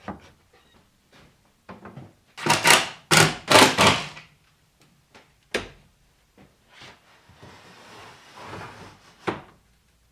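Wooden scraping and knocking from a wooden structure being shifted and handled: three loud scrapes a few seconds in, then a couple of sharp single knocks.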